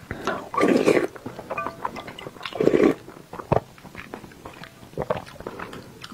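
Close-miked eating sounds: chewing of soft boiled egg soaked in sauce, in irregular wet mouthfuls, two louder ones about a second in and around three seconds in, with a few sharp clicks.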